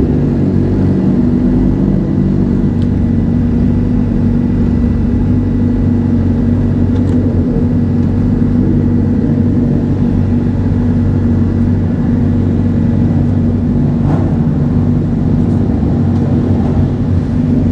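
Motorcycle engine running steadily at low, even revs, with no revving up or down.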